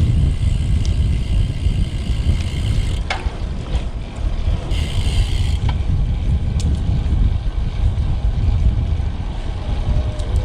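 Wind rumbling on the microphone of a riding road bike's camera, with road noise, a click about three seconds in and a brief hiss about five seconds in.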